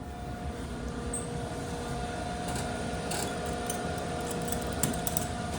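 Dover elevator cab travelling between floors: a steady low rumble with a faint two-tone hum held throughout, and a few light clicks and rattles.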